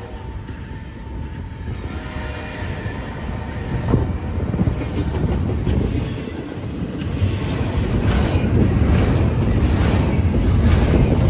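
BNSF freight train rolling past, a heavy rumble with the clickety-clack of wheels over rail joints, growing louder about four seconds in and again later as the cars go by.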